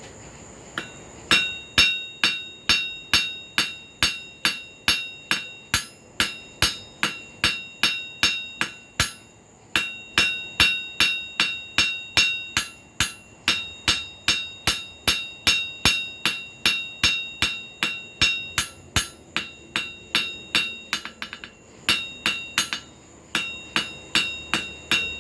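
Blacksmith's hammer striking a hot carbon-steel cut flooring nail on the anvil, drawing its end out to a point for a hook. About three ringing blows a second, with a few brief pauses.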